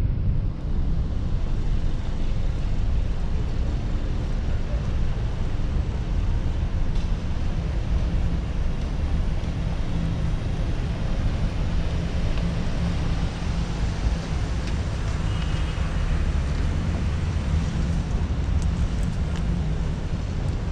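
Outdoor street ambience: a steady low rumble with traffic noise, without pauses or sharp events.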